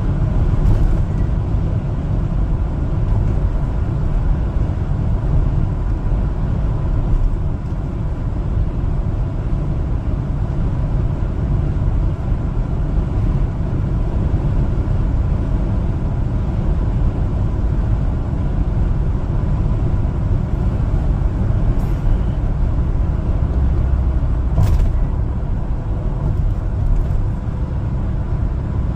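Steady engine and road rumble of a 1-ton LPG cargo truck driving.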